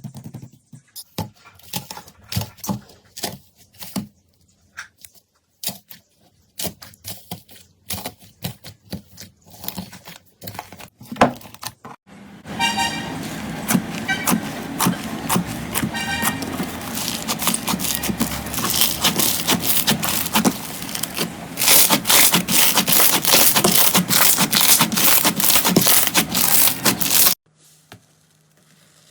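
Slime being squeezed and poked, giving a run of sharp sticky pops and clicks. About halfway it changes to a continuous dense crackling that gets louder, then cuts off suddenly near the end.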